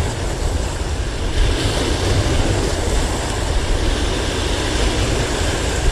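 Steady wind noise rumbling on the microphone, with the wash of sea surf behind it.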